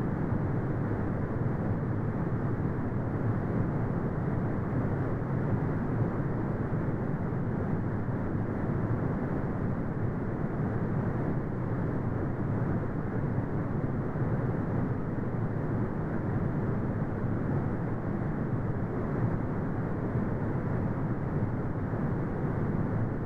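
Brown noise: a steady, deep rumbling hiss with its weight in the low end and nothing above the upper mids, unchanging throughout.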